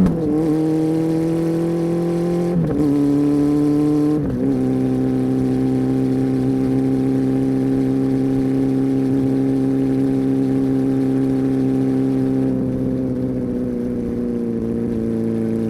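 Honda CB400 Super Four's inline-four engine with a deep exhaust note, accelerating through the gears: three upshifts in the first four seconds, each a sudden drop in pitch, then running at a steady speed before easing off slightly near the end.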